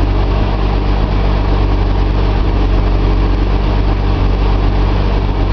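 Nissan L28 straight-six engine with a Maxima cylinder head idling steadily as it warms up.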